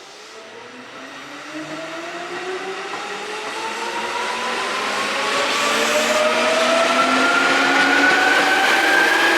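Seibu 2000 series electric train accelerating, its traction motors whining steadily upward in pitch in several tones, growing louder throughout.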